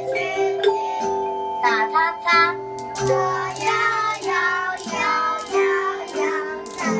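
Young children singing a song over sustained instrumental accompaniment.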